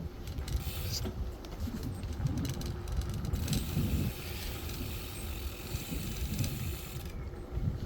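Wind buffeting a phone's microphone: an uneven low rumble that swells and fades, with a faint hiss over it.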